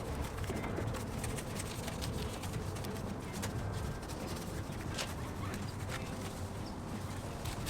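Detailing brush scrubbing degreaser-soaked engine-bay surfaces: irregular scratchy strokes and light clicks and taps, over a low steady hum.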